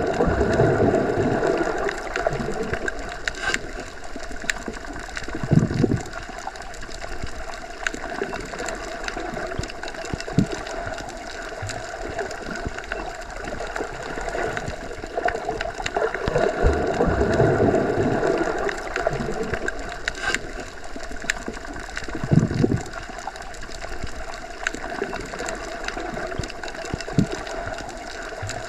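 Underwater ambience as heard submerged in a pool or lake: a steady wash of water noise that swells near the start and again about two-thirds through, with a couple of low thuds.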